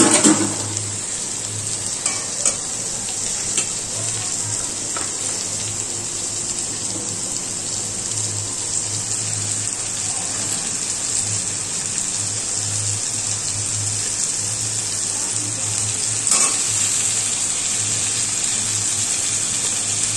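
Onions and chopped tomatoes sizzling in butter in a steel pan: a steady frying hiss, with a few light clicks.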